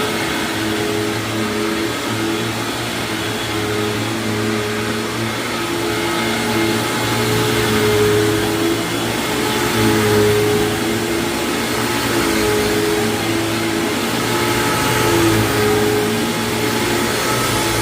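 1999 Hoover WindTunnel self-propelled upright vacuum cleaner running, a steady motor hum whose level swells and eases every couple of seconds.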